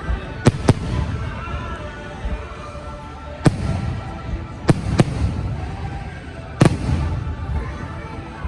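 Fireworks bursting overhead in sharp bangs, six in all, some in quick pairs, over the show's music playing on loudspeakers.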